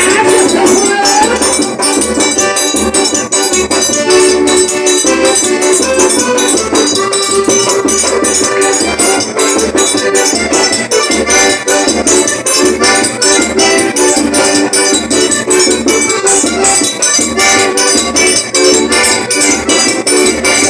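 Forró trio playing an instrumental passage: accordion melody over a steady beat of zabumba bass drum and a quick, evenly ticking triangle.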